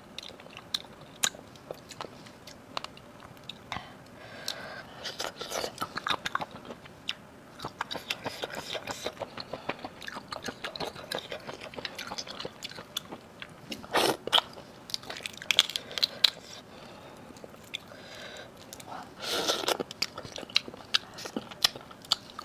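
Close-miked eating of seafood: wet chewing and biting with many small clicks and crunches, and a few louder crunching bursts.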